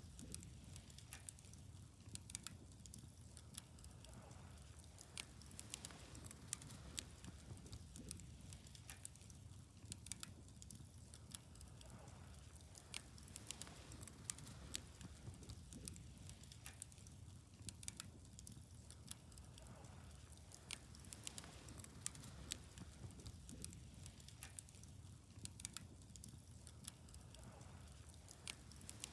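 Wood fire burning, crackling with many small irregular pops over a steady low rumble.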